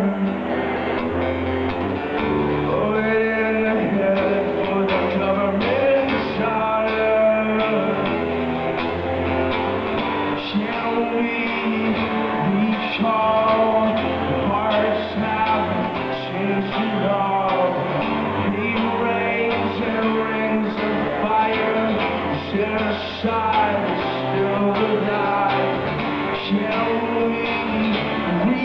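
Live rock music played on guitar, with a singing voice.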